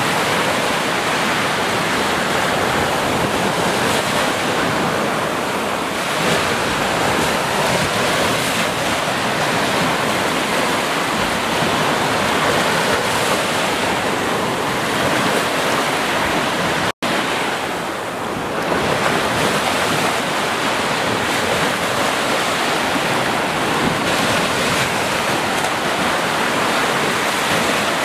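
Ocean surf washing continuously onto a beach, a steady rush that swells and eases slightly. About two-thirds of the way through, the sound cuts out for a split second.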